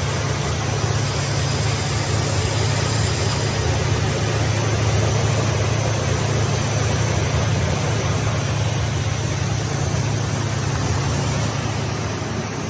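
Six-roll wood sanding machine running steadily: a constant low motor hum under an even hiss from the abrasive rolls.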